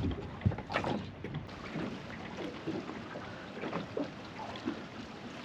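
Water sounds around a small fishing boat, with a few sharp knocks in the first second.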